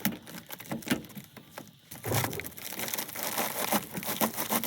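Flexible duct's plastic inner core crinkling and crackling as it is pulled and wrapped around a return duct collar, with scattered sharp clicks, getting denser and louder about halfway through.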